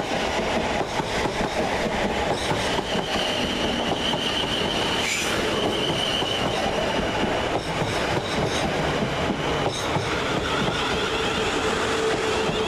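Two coupled Class 450 Desiro electric multiple units running past close by. There is a steady rumble of wheels on rail with rapid clicks over the rail joints, a high wheel squeal for a few seconds after the start, and a lower steady whine near the end.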